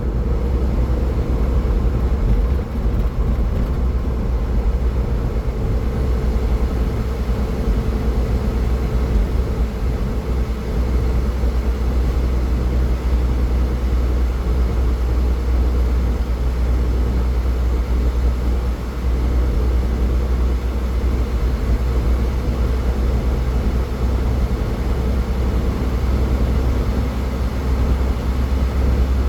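A car driving on the highway: a steady, low rumble of road and engine noise that holds evenly throughout.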